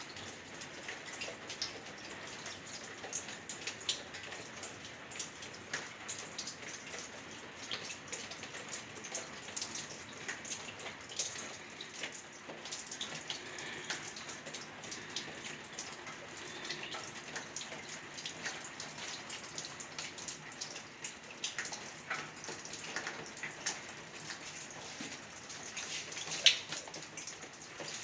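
Water dripping and splashing from badly sealed plumbing pipes, many irregular drops landing like rain over a steady hiss, with one louder splat near the end.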